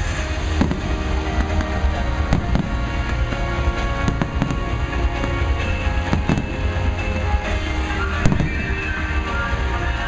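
Fireworks show: aerial shells bursting with sharp cracks and pops, many in quick succession and one loudest crack about eight seconds in, over loud music with deep bass.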